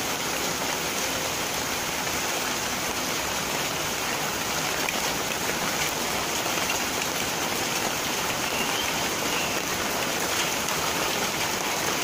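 Steady rain falling, an even wash of many drops with no let-up.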